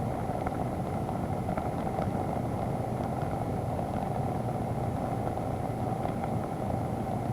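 Motorcycle running on the move, heard through an onboard camera as a steady, dull rumble, with a few faint ticks over it.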